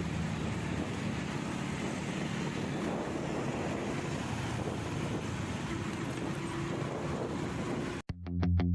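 Wind buffeting the microphone over a motorcycle's engine running at a steady pace while riding. Near the end it cuts off suddenly and plucked electric-guitar music starts.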